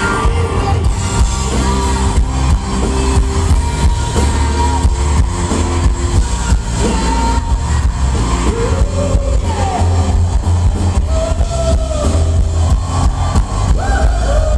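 Live band music at concert volume: a singer's voice gliding over a heavy, steady bass line and a regular drum beat.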